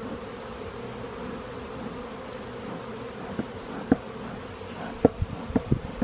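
Honeybees buzzing steadily in a large mass around an opened hive. In the second half a few sharp knocks or clicks cut through, the loudest a little after five seconds in.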